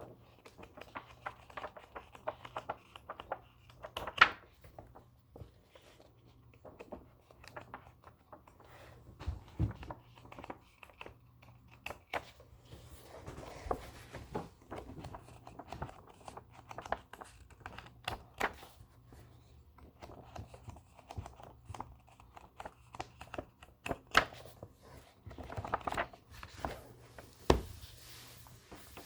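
Paper book pages being handled close to the microphone: soft, irregular rustling with scattered sharp clicks, the sharpest about four seconds in.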